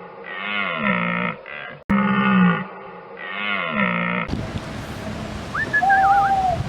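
Horse neighing: loud, pitched calls that rise and fall, repeated. About four seconds in they cut off and give way to wind noise with a faint, high, gliding animal call near the end.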